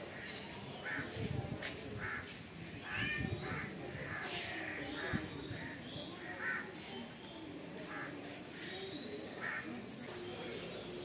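Birds calling: a string of short calls, spaced about a second apart.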